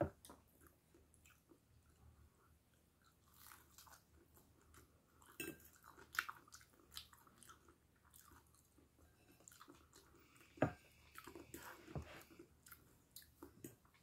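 Faint chewing and crunching of fried banana-and-pork-mince fritters and broccoli, in scattered bites with a few sharper crunches about five, eleven and twelve seconds in.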